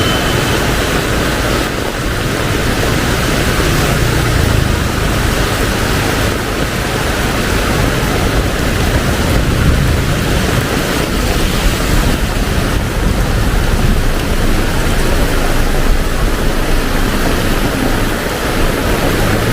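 Heavy tropical rain pouring steadily in a thunderstorm, a dense even hiss of downpour.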